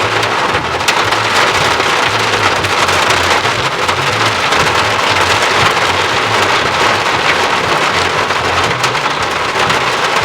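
Steady heavy rain falling, a dense even rush of water with many individual drop hits.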